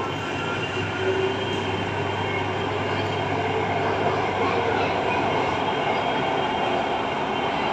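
Mumbai Metro train running between stations, heard from inside the carriage: a steady noise of wheels on rail and traction motors, with a few faint steady tones.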